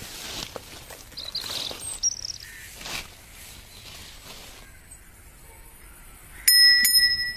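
Birds chirping over faint outdoor ambience. About a second before the end, a loud bell-like ringing sets in and is struck again a moment later.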